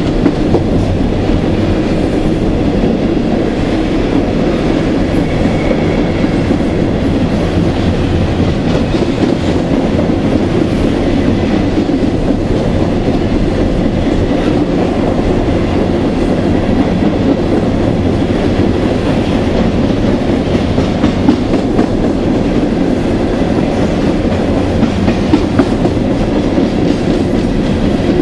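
Empty coal hopper cars of a CSX freight train rolling past: a steady, loud rumble of steel wheels on the rails.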